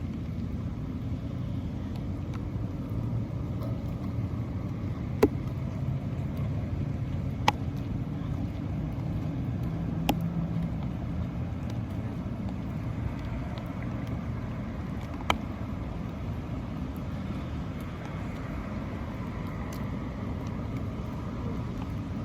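A steady low outdoor rumble, with four short sharp clicks spread through it.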